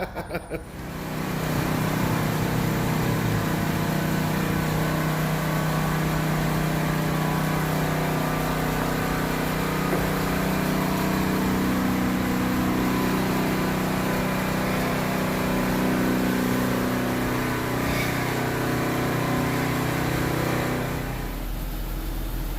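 A motor running steadily, with a low hum and a hiss over it, that drops away about a second before the end.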